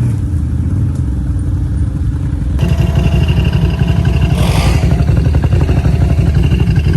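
Off-road vehicle engine running, louder and more pulsing from about two and a half seconds in, with a short hiss about halfway through.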